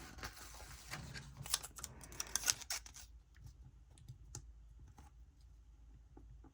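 Paper planner stickers being handled and peeled from their sheet: a run of light rustling and small clicks for about three seconds, then only a few faint taps.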